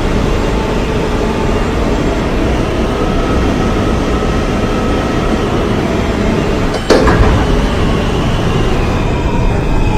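Interior running noise of an R160A subway car in motion: a steady, loud rumble of wheels and running gear on the rails, with a faint whine. One sharp bang is heard about seven seconds in.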